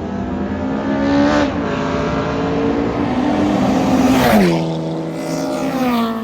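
Drag racing cars accelerating hard down the strip. The engine note climbs, drops sharply at a gear change about a second and a half in, climbs again and drops again just after four seconds, when it is loudest.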